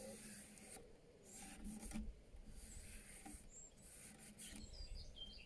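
Faint rubbing of a wet finger smoothing wood filler along a crack in a wooden chair, taking off the excess.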